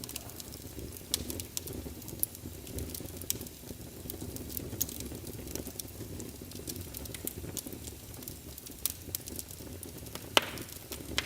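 Wood fire burning in a fireplace: a steady low rush of flames with frequent sharp crackles and pops from the logs, the loudest pop near the end.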